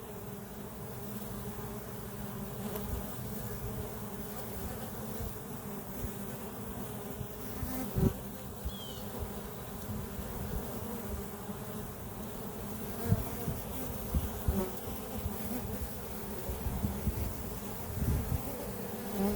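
Honey bees buzzing at a hive entrance: a steady hum of many bees coming and going. A few brief low bumps stand out over it, the loudest about eight seconds in.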